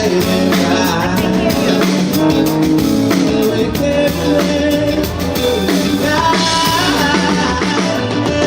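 Live rock-style band playing a Christmas carol: drum kit, guitar and sung vocals.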